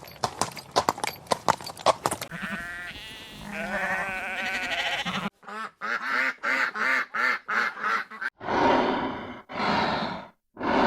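A sequence of animal calls. Rapid clicking comes first, followed by a wavering, pitched, bleat-like call. Then comes a quick run of short repeated calls, and near the end, longer rough calls separated by short silences.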